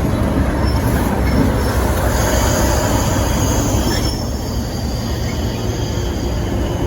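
Diesel train running by with a heavy, steady low rumble. A high-pitched wheel squeal comes in about two seconds in and fades out around four seconds in.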